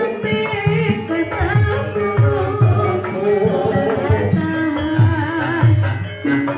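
Live ebeg dance accompaniment music: kendang hand-drum strokes beating steadily under a wavering melody, in a dangdut-flavoured song.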